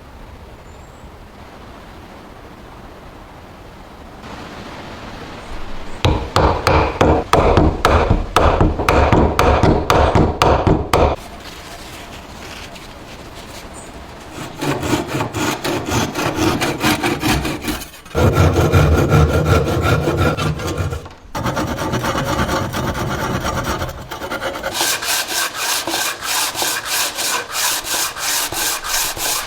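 Rhythmic back-and-forth strokes of a hand tool scraping against wood, like sawing or rasping, in several bouts after a quiet start, the loudest bout about six to eleven seconds in.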